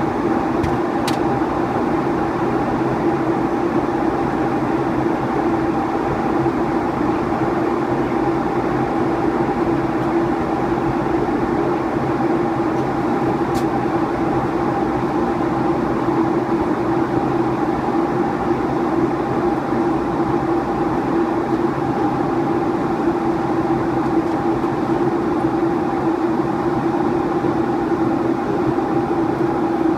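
Steady cabin noise of a Boeing 757 in flight: an even airflow rush with a constant engine drone.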